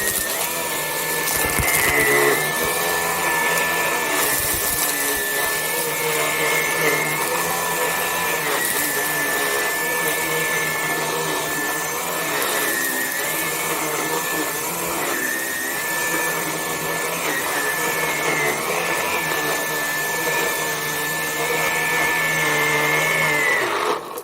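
Vax Blade 4 cordless stick vacuum cleaner running on normal power with its motorized brush roll spinning. It makes a steady high motor whine over a rushing suction noise that wavers slightly, and it is switched off just before the end.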